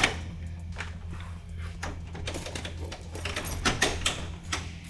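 Scattered clicks and knocks over a steady low hum.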